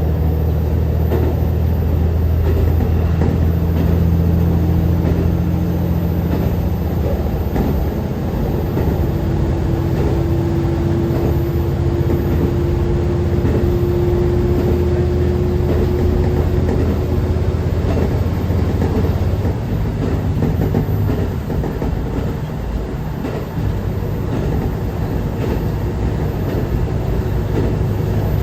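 KiHa 150 diesel railcar running along the line, its engine humming steadily under the rumble of wheels on rail. A thin whine climbs slowly in pitch about a third of the way in. Later the engine note drops back for a few seconds and then picks up again.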